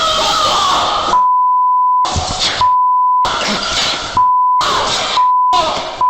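Censor bleeps: a steady 1 kHz beep tone cuts in about five times, each lasting under a second, over loud, chaotic commotion picked up by the body-worn camera.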